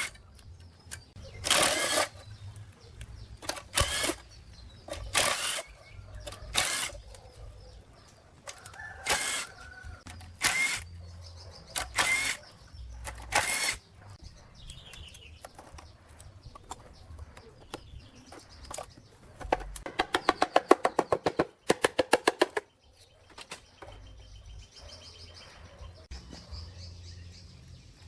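Repeated strokes of hand work on old rusty metal, about one every second and a half. Near the end comes a quick rattling run of about ten hits a second that lasts two to three seconds and then stops suddenly.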